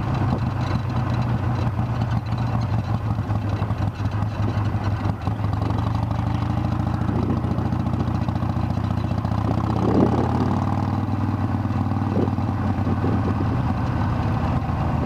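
Harley-Davidson Sportster's V-twin engine running steadily at low road speed.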